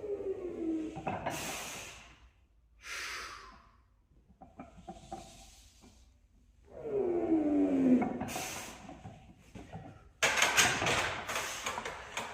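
A weightlifter straining through a heavy squat: two long groans that slide down in pitch, about seven seconds apart, with sharp breaths hissed out between them. Near the end comes a couple of seconds of rattling clatter.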